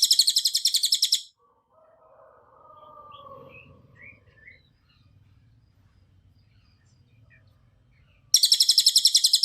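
Cililin songbird singing its rapid-fire song: a fast string of sharp, high notes, about a dozen a second and lasting about a second, at the start, then another such burst near the end.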